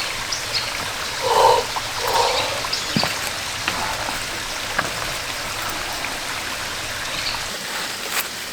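Steady rushing of a valley stream under light drizzle, with scattered light ticks. Two short calls about a second and a half and two seconds in.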